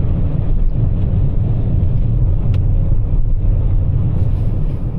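Steady low rumble of tyre and road noise inside a Toyota RAV4 Prime's cabin as it drives through snow-covered road on winter tyres.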